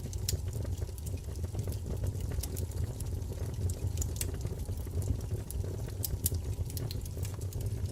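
Wood fire burning, a steady low rumble of flames with irregular sharp crackles and pops from the burning wood.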